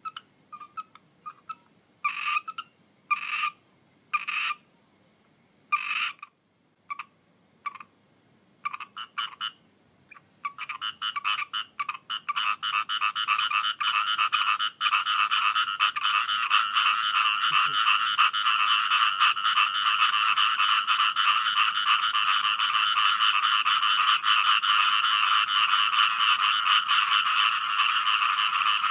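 Frogs croaking: separate calls a second or two apart for the first ten seconds or so, then a dense chorus of many frogs calling without a break.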